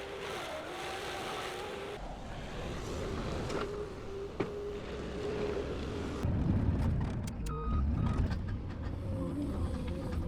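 The LS MT242 compact tractor's diesel engine running with a steady whine. A low rumble comes in about two seconds in and grows louder about six seconds in, with a few clicks near the end.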